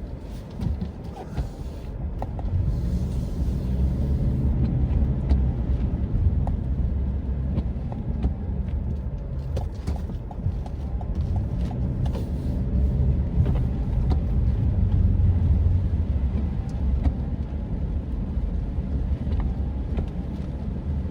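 Car driving at low speed: a steady low rumble of engine and tyres on wet road, swelling a little at times, with scattered faint ticks.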